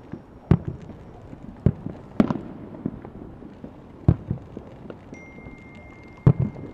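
Aerial firework shells bursting: about five loud bangs spaced one to two seconds apart, with smaller crackles between them and a short echoing tail after the biggest.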